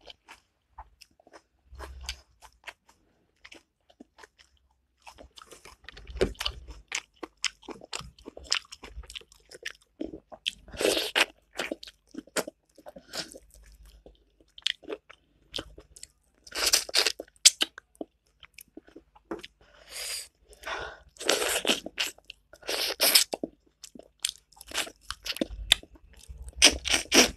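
Close-miked mouth sounds of a person eating: irregular chewing and crunching, with several louder crunchy bursts in the second half.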